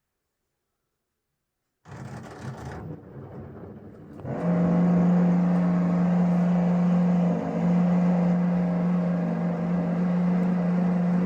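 LG washing machine humming during a wash. A lower rumbling comes in about two seconds in, and a louder steady drone with one clear low tone takes over about four seconds in and holds.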